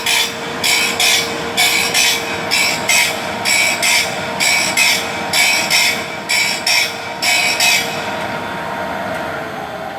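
Vollmer saw-sharpening machine grinding a saw blade's teeth one after another, a rasping grind about twice a second over the steady hum of its motor. The grinding stops about eight seconds in, and the hum keeps going, starting to drop in pitch near the end.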